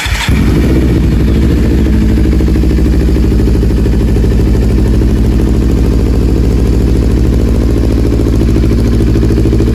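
Kawasaki Z250 FI's parallel-twin engine catches right at the start and then idles steadily, freshly refilled after an oil and filter change.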